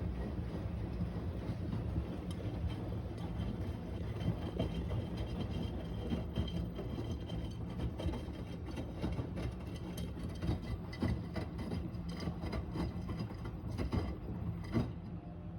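AEG Öko-Lavamat 72620 washing machine tumbling a small load on its Easy Cares 60 °C wash. The drum motor hums steadily under irregular knocks and splashes of laundry and water falling in the drum.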